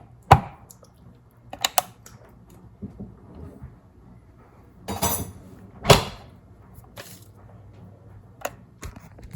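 Kitchen containers and utensils being handled during meal prep: scattered knocks and clicks, with a brief rustle about five seconds in.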